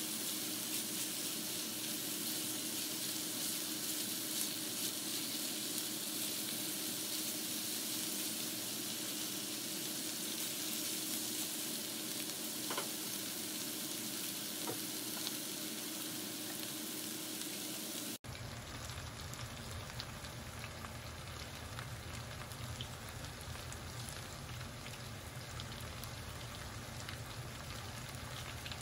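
Chopped cabbage, beets and peppers sizzling steadily as they fry in an enamelled skillet, with a few light spatula scrapes. About two-thirds of the way through the sound cuts abruptly and carries on duller, with more low rumble.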